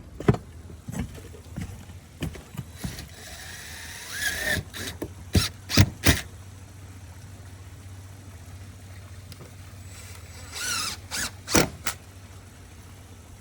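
A few sharp knocks and clacks, a cluster of them about halfway through and one more near the end, with two spells of scraping between them, over a low steady hum.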